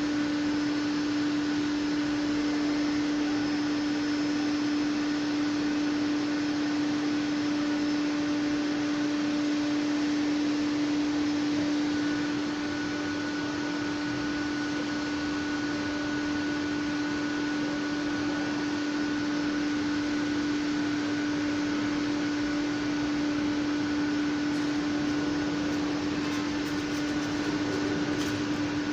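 Steady machine hum: one constant low tone over an even hiss, dropping slightly in level about twelve seconds in.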